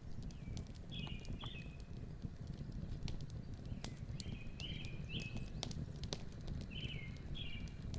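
Lakeside outdoor ambience: short high bird calls, mostly in pairs, repeat every second or two over a steady low rumble, with scattered sharp clicks throughout.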